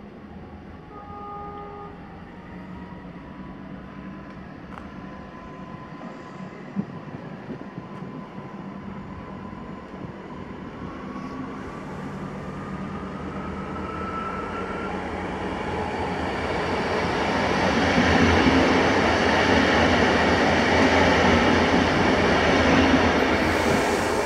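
Electric multiple unit train approaching along the platform, its noise swelling from about halfway and loudest over the last several seconds, with a faint whine rising in pitch as it nears.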